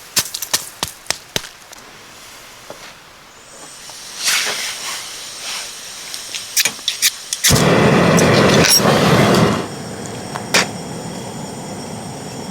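A series of sharp clicks, then a portable gas stove burner catching about seven and a half seconds in: a loud rush for about two seconds that settles into a steady hiss of the flame.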